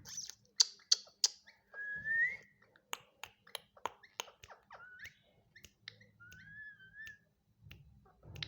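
Indian ringneck parrot making a run of sharp clicks and several short whistles, some rising in pitch and one wavering, between its meow imitations.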